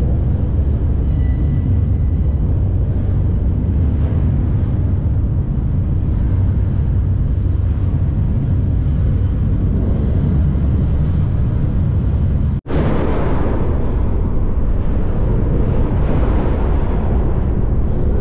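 Freight train rolling, heard from aboard one of its cars: a loud, steady rumble with rattling. A split-second gap about two-thirds of the way through, after which the rattle is brighter.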